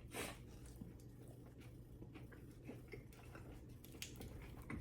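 A person chewing a mouthful of sandwich: faint, irregular soft mouth clicks and smacks, with a slightly louder one just after the start.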